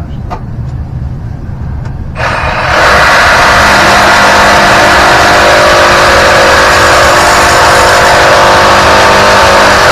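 Power saw started about two seconds in and running steadily at full speed through a cut in 3-inch drain pipe; the blade is not cutting cleanly and is acting up.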